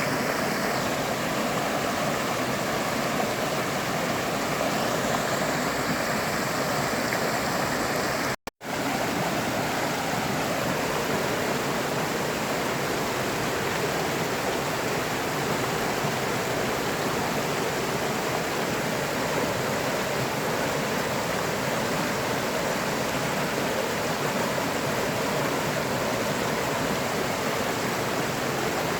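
River water flowing and rushing in a steady, even wash. It cuts out to silence for a split second about eight seconds in, then carries on unchanged.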